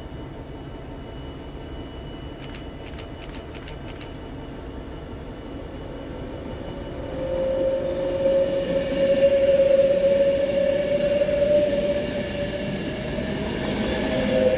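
Class 390 Pendolino electric train passing slowly on cautionary signals. A quick run of clicks comes about three seconds in. From about seven seconds the train grows louder as it nears, with a steady high whine that rises slightly in pitch.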